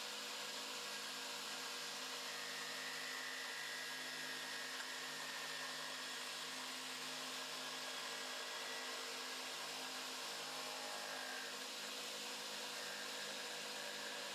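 Electric drill running steadily as the motor of a drill-powered wood lathe, with a constant whine over a hiss.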